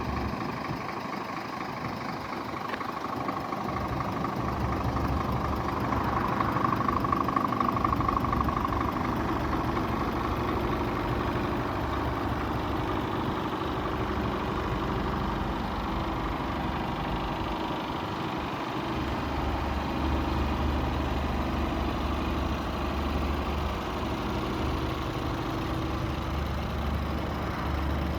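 Scania R450 truck's diesel engine idling steadily.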